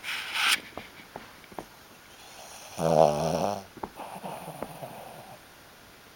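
A 15-year-old Shih Tzu snoring in its sleep: a short breathy rush of air at the start, then one loud, rattling snore about three seconds in, followed by softer snoring breath.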